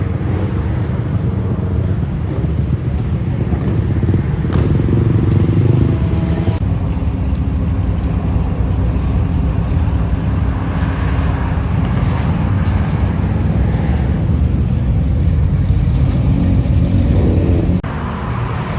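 Big motorcycle engines running steadily close by, with the sound changing abruptly about six and a half seconds in and again near the end.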